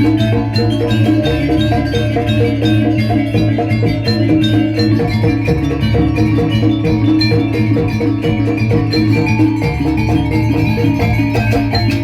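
Live dance-accompaniment music: metallic mallet percussion plays fast, evenly repeated notes over drumming and a sustained low tone.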